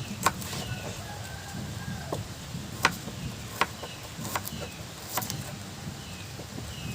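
A handful of sharp, separate knocks at irregular intervals over a low steady background hum, while a bird repeats a short falling chirp every second or two.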